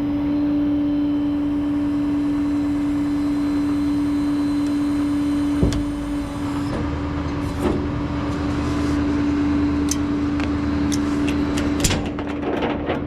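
Flatbed tow truck's hydraulic bed pump running with a steady hum as the bed is lowered. A few clanks and clicks come in the second half, and the hum stops near the end.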